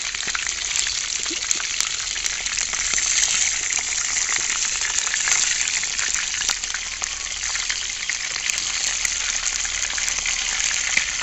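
Chicken leg pieces frying in hot oil in a pan: a steady sizzle with crackling pops.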